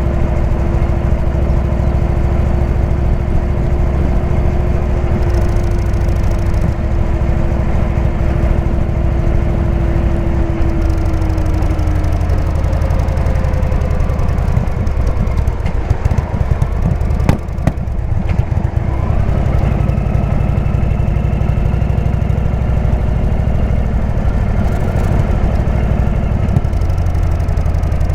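Indian V-twin motorcycle engine with a Jekill & Hyde exhaust running under way, a loud steady pulsing; about two-thirds through the sound dips briefly, then the engine note climbs again.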